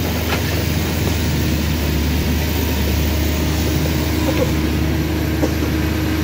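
Heavy vehicle engine running steadily at low revs, a deep even hum with no change in pitch.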